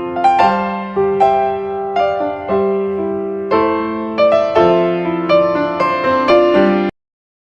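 Background music: a melody of struck piano notes in a steady rhythm, which cuts off abruptly near the end and leaves silence.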